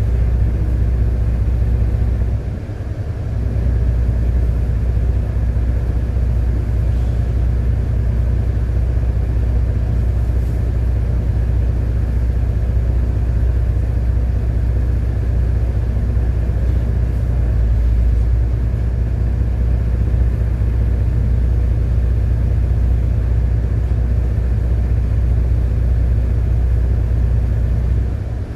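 City bus driving along the road: a steady low engine and road rumble, briefly easing off about three seconds in and again near the end.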